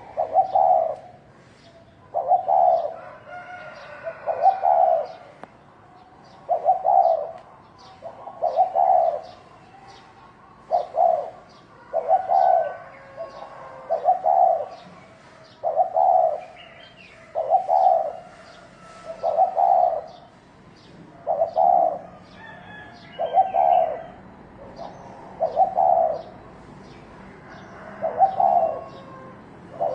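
Spotted dove cooing, the fighting-style 'thổ đồng' call used to provoke male doves: a low cooing phrase repeated about every two seconds. Faint high chirps of small birds tick behind it.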